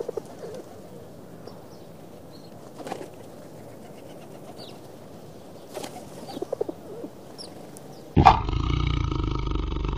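Rock pigeon cooing softly a few times, with faint chirps of small birds behind it. About eight seconds in, a loud tiger roar starts abruptly and carries on.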